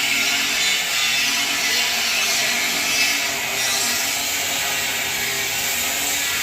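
A power tool, such as an angle grinder, working steadily on metal: a loud, harsh, continuous hiss with a faint motor hum underneath.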